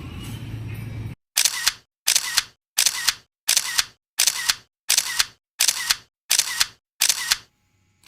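Camera shutter clicks, nine in an even series about 0.7 s apart with dead silence between them, after a second of background music that cuts off abruptly.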